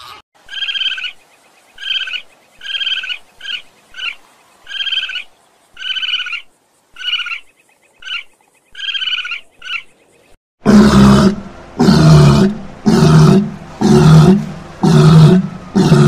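A string of short, high calls, roughly one a second, each on a steady pitch. About ten seconds in these give way to a walrus's loud, deep grunting bellows, one about every second.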